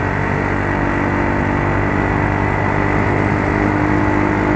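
Yamaha Mio Soul scooter's single-cylinder engine running steadily under way, with road noise beneath.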